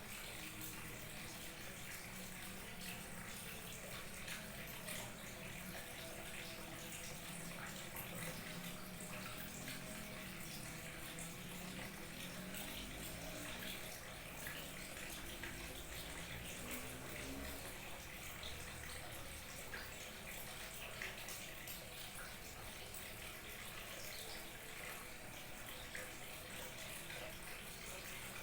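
Small waterfall trickling and splashing steadily, with some gurgling that wavers in pitch.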